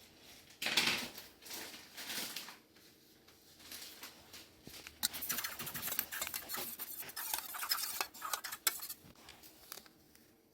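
Small wood fire of dry kindling crackling. There is a sudden rush of noise about a second in, then a dense run of fine snaps and crackles from about five to nine seconds in.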